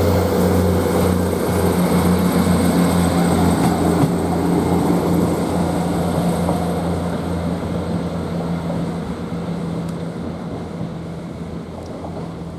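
Class 158 diesel multiple unit's underfloor diesel engines pulling away under power, a steady low drone with a pulsing beat. It fades gradually over the second half as the train draws away.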